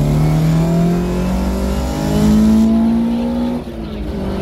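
Mk2 Ford Escort's Vauxhall C20XE 2.0 16-valve engine under hard acceleration, heard from inside the cabin: the revs climb steadily, drop briefly at a gear change about three and a half seconds in, then climb again.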